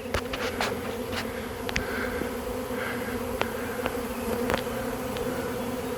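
A honey bee swarm in flight: the steady, dense buzzing hum of many bees at once, with scattered sharp ticks throughout.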